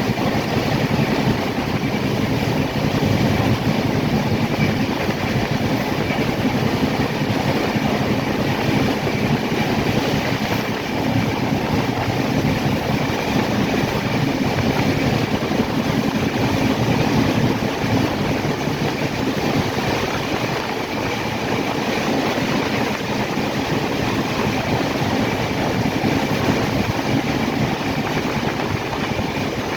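Steady running noise of a moving train on the rails, with a faint, steady high whine above it.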